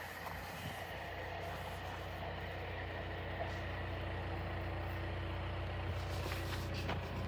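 Steady low drone of an idling engine, with a constant low hum that grows slightly louder toward the end.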